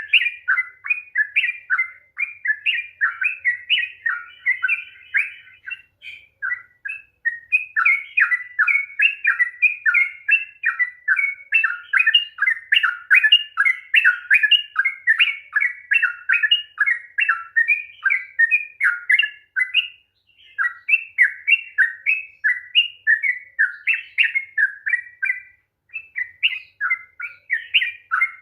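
Yellow-vented bulbul (trucukan) singing a long, fast run of quick chirped notes, broken by short pauses three times. This is the rapid 'ropel panjang' song that keepers play to stir a quiet bird into singing.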